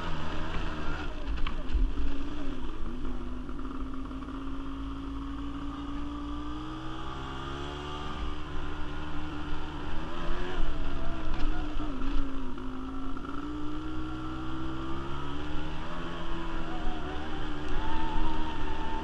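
Quad bike (ATV) engine running while riding, its pitch rising and falling with the throttle, with a few low thumps in the first couple of seconds.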